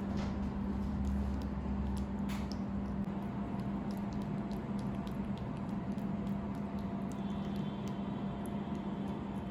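Steady low hum under scattered light clicks and scratches, with a faint high steady tone coming in about seven seconds in.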